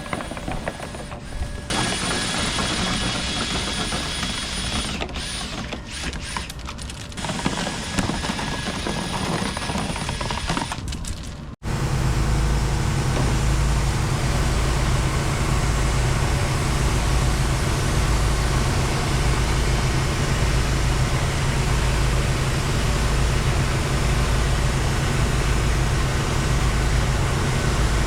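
Dryer-vent cleaning machinery running: an uneven mechanical whirring for the first part. After an abrupt cut, a steady, louder low drone runs on.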